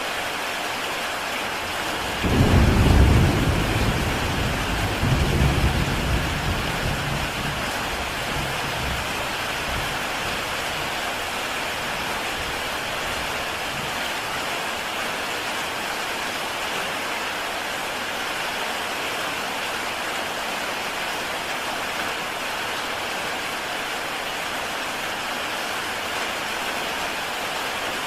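Heavy rain falling steadily on a tile roof. About two seconds in, a low rumble of thunder breaks in suddenly, swells twice and rolls away over several seconds.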